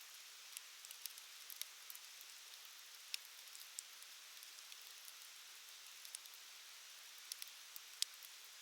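Wood fire crackling: irregular sharp pops and snaps over a soft steady hiss, the loudest pop about eight seconds in.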